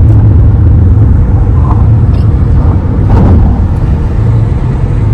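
A car driving, with a loud, steady low rumble and a brief louder rush about three seconds in.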